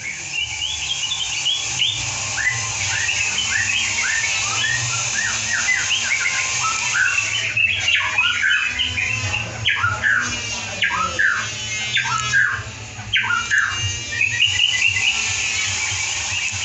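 Songbird singing a long run of rapid, varied chirps and short whistles, as on a masteran recording played to train white-rumped shamas (murai batu). A low steady hum runs underneath.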